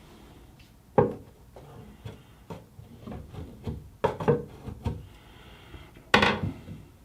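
Hand tools knocking and scraping at a bathtub drain opening, with a few sharp knocks (about a second in, around four seconds in, and near the end) and quieter scraping and handling noises between.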